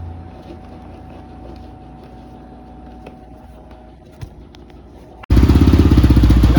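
EGL 450T dirt bike's single-cylinder engine being started on the electric starter: a loud, fast, even pulsing beat comes in abruptly about five seconds in, after a faint low hum and a few small clicks. Right afterwards the owner takes it that the starter has blown.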